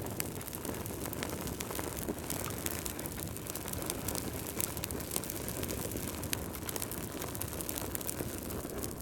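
Wood fire burning in a fireplace: logs crackling with many small, irregular pops over a steady low rush of the flames.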